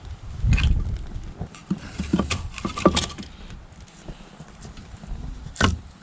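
Dry twigs and sticks snapping and knocking as a campfire is started, a handful of sharp cracks at irregular intervals, the last one about five and a half seconds in.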